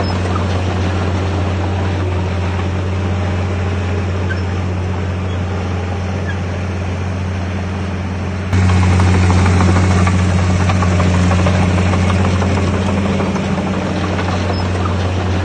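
Heavy construction machine's diesel engine running steadily with a low hum. It gets suddenly louder about eight and a half seconds in.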